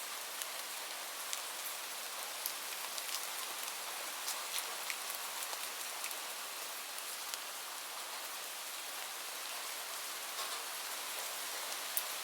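Steady rain: an even hiss with scattered sharp ticks of individual drops striking a surface.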